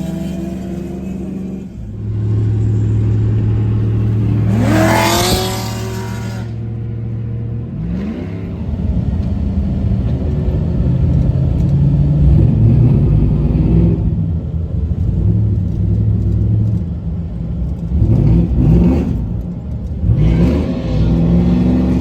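Car engine running with several quick revs, its pitch sweeping up each time: a strong one about four seconds in, another near eight seconds, and two close together near the end.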